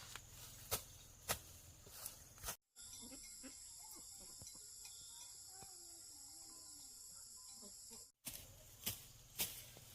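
Sharp clicks about every half second over a low hum. After an abrupt cut, a steady high-pitched insect chorus runs for about five seconds, then cuts off and the clicks return.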